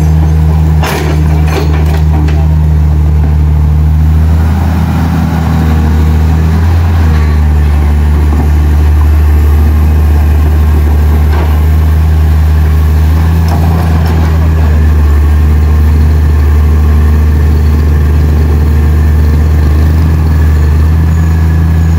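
Heavy vehicle engine idling steadily with a deep, even hum. A few sharp knocks sound in the first couple of seconds.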